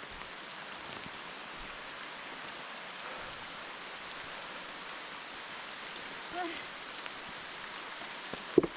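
Heavy rain falling steadily, an even hiss. There is a sharp knock near the end.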